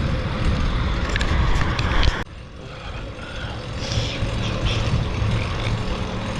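Low, rumbling wind noise on a bike-mounted action camera's microphone while riding on a street, dropping away suddenly a little over two seconds in and building again near the middle.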